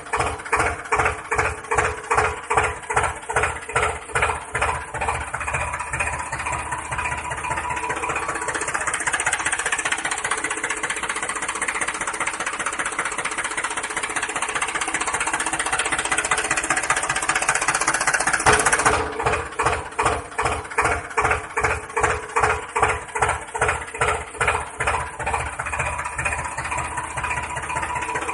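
Tractor engine chugging with an even beat of about two a second. About a third of the way in it runs smoother and steadier, and about two-thirds through it cuts abruptly back to the chugging beat.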